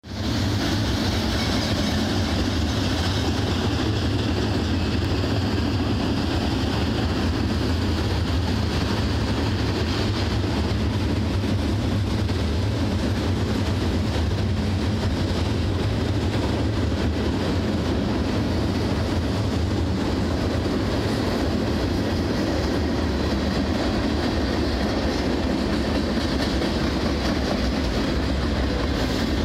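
Freight train rolling past, its cars making a steady low rumble of wheels on rail.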